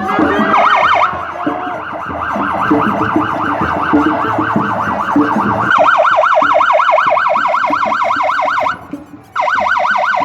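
Police vehicle siren in a fast yelp, its pitch sweeping up and down about five times a second. It cuts out for a moment near the end, then resumes.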